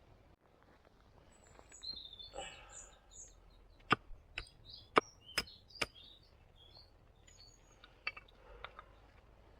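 Small birds chirping in the forest, with a brief rustle early on and then a quick run of five sharp knocks or snaps, like wood being struck or broken.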